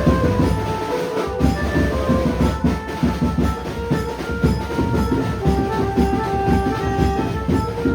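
Maharashtrian banjo band playing loud: an amplified banjo melody in long held notes over fast, dense drumming.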